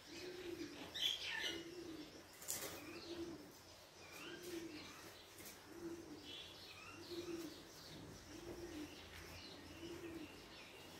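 Birds calling faintly: a low cooing call repeated about once a second, with higher chirps now and then.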